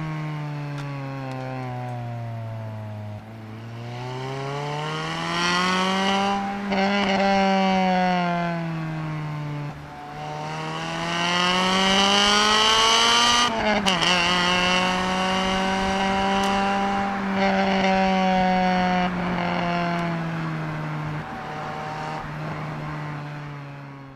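Honda Civic Type R EP3's four-cylinder engine heard from inside the cabin, revving up and easing off on a twisty road. The pitch falls at first, climbs about four to six seconds in, drops again near ten seconds, then climbs to a high peak with a brief break about fourteen seconds in before holding fairly steady. The sound fades out at the very end.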